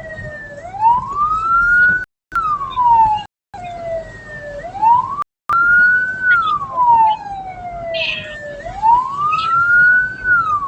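Escort vehicle's siren wailing, rising and then falling slowly in pitch about every four seconds, with the sound dropping out briefly a few times.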